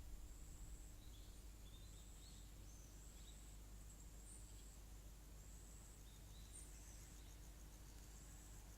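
Faint countryside ambience: a high-pitched insect trill comes and goes in bouts of about a second, with a few short chirps in between, over a low steady rumble.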